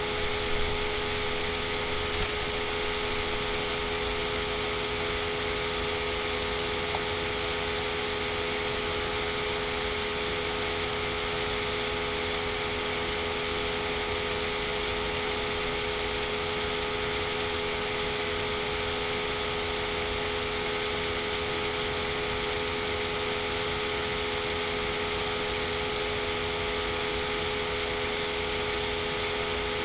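Steady machine hum with a constant low tone under an even hiss, and a few faint clicks in the first seven seconds.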